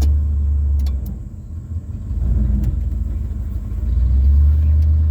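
1990s Ford F-150 truck engine running with a deep low rumble that sags for a second or so about a second in, then builds back up near the end. It is running poorly, with a fault the owner has just noticed and not yet traced.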